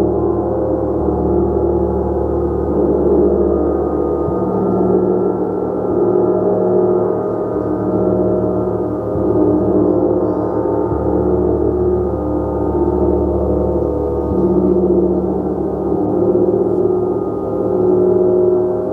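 A gong being played continuously: a dense wash of many overlapping sustained tones that swells and eases in slow waves.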